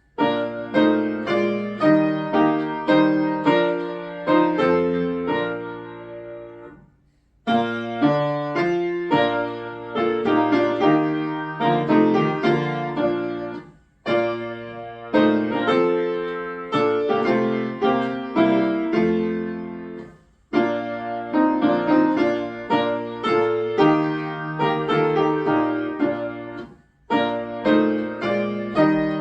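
Solo piano playing a hymn in full chords, in phrases of about six to seven seconds, each dying away into a brief pause before the next begins.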